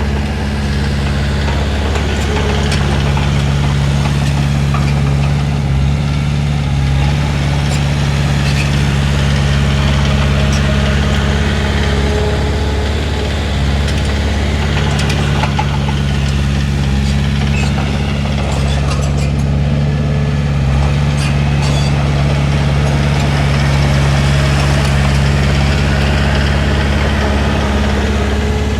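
Heavy diesel engine of earthmoving equipment running steadily at an even pitch, with scattered light knocks and clanks over it.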